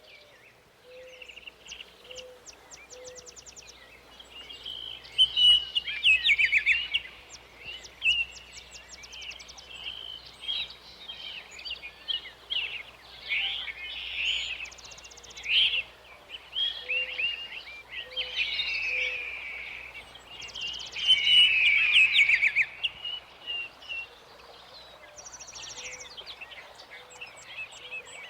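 Several songbirds singing together in a dense mix of chirps, quick trills and warbled phrases. A soft, low note repeats three times in a row, and this comes back a few times.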